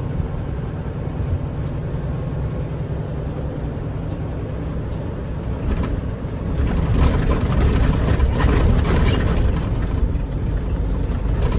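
Semi truck's diesel engine running, heard from inside the cab as a steady low drone that grows louder and fuller about six and a half seconds in.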